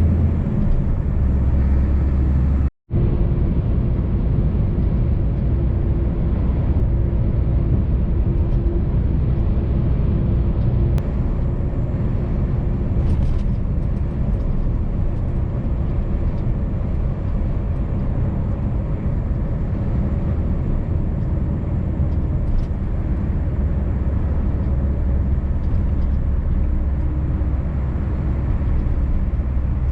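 Scania V8 truck engine running steadily at motorway cruising speed, a low even drone with road and tyre noise. The sound cuts out completely for a split second about three seconds in.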